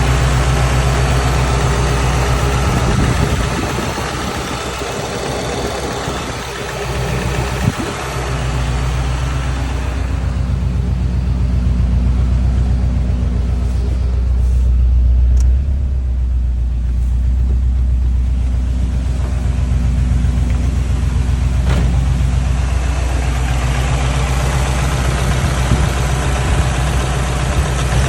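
Subaru EJ205 turbocharged flat-four engine running, with a knocking noise that the owner cannot place: rod knock, piston slap or the timing belt tensioner. The engine gets quieter for a few seconds early on, then comes back up.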